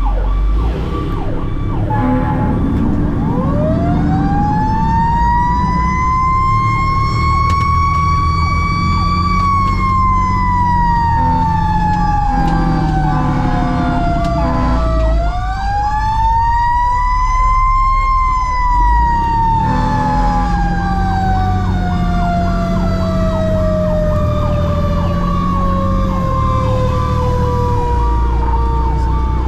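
Fire engine responding with sirens, heard from the cab: a mechanical siren winds up from a low growl to a high wail about three seconds in, coasts down, is wound up again near the middle, then slowly winds down. Under it an electronic siren runs a fast repeating yelp, over the diesel engine's steady drone.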